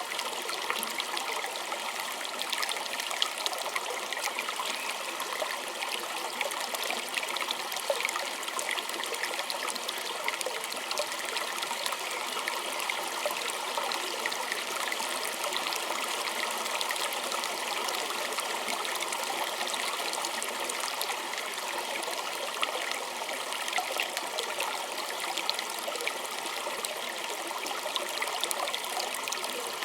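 Small stream of water trickling and splashing steadily over stones, with many small splashes and gurgles.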